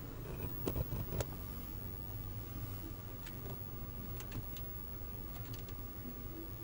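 Washing machine motor, converted to a CNC spindle, running with a steady low hum and a faint high whine. A few sharp clicks sound about a second in and again around four and five and a half seconds.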